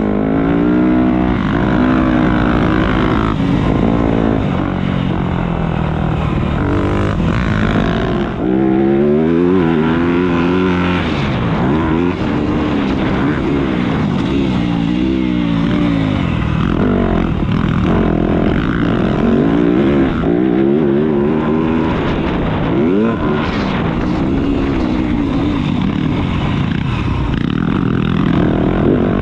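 Motocross bike engine revving hard up and down, its pitch swooping with throttle and gear changes.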